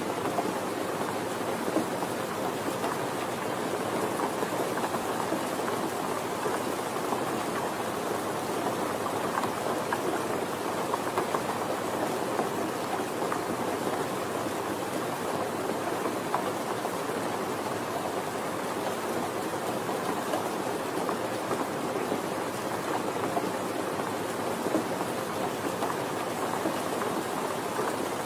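Steady rain falling, a constant even patter with no changes.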